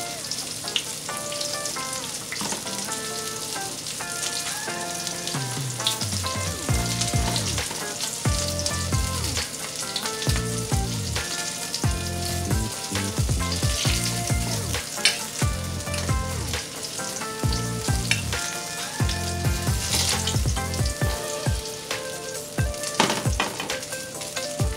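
Breaded shrimp frying in shallow oil in a pan, a steady sizzle with a few sharp clicks. Background music with a pulsing bass line comes in about five seconds in.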